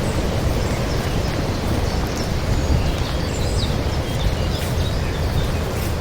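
Wind buffeting the microphone, a steady rumbling noise, with a few faint bird chirps in the middle.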